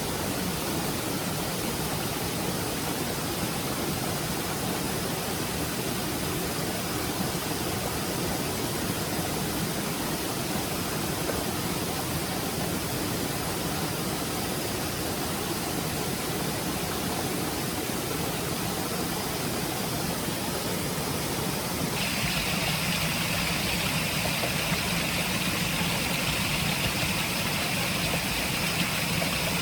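Stream water running steadily as an even rushing hiss. About 22 seconds in, the sound changes abruptly to a brighter, higher hiss.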